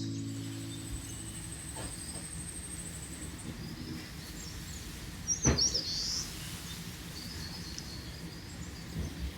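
Summer forest ambience: birds chirping now and then, with a high, thin, rapidly pulsed trill during the first few seconds. About five and a half seconds in, a sharp click comes together with a louder bird call.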